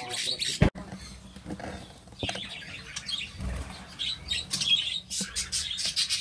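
Small caged birds chirping in an aviary, short high calls that come faster near the end, with a sharp knock under a second in.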